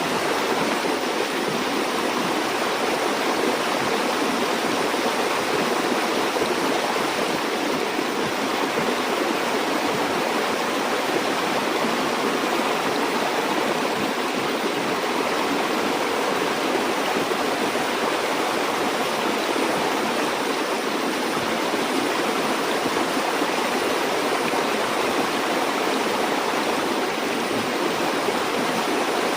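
A river or stream flowing steadily, a continuous rushing of water without breaks or single splashes.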